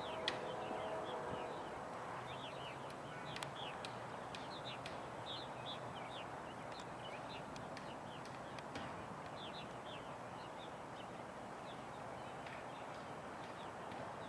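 Small birds chirping busily, many short calls a second, over a steady faint background noise.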